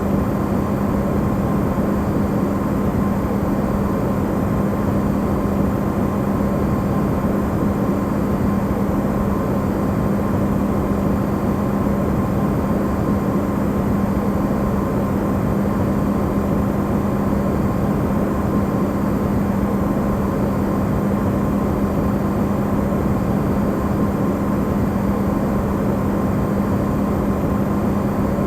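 Amplified refrigerator running: a steady, unchanging hum with a strong low tone over an even rushing noise.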